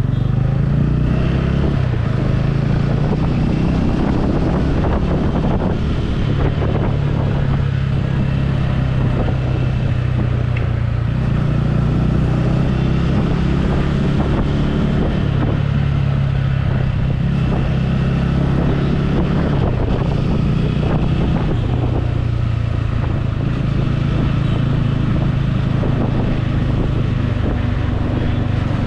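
Motorcycle engine running at a steady pace while riding, over a constant rush of road and wind noise.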